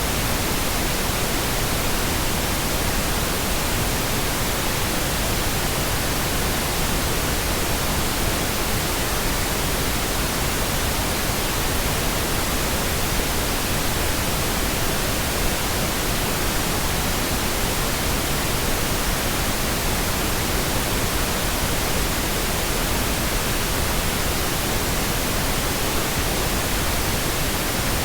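Steady pink noise: an even, unchanging hiss spread across the whole range from low to high.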